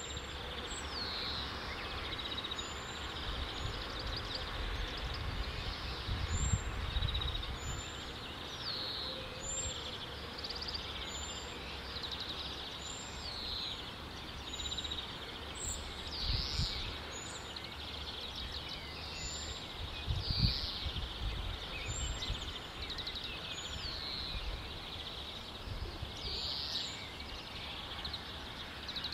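Several songbirds singing: one short, very high note repeats about every second and a half among falling, sweeping phrases, over a low rumbling background noise that swells now and then.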